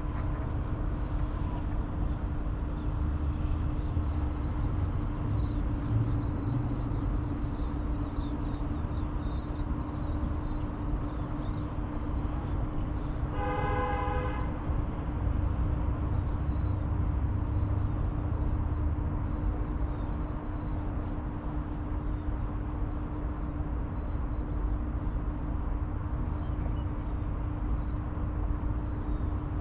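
City riverside ambience: a steady low rumble with a constant hum and faint bird chirps. About halfway through, a horn sounds once for about a second.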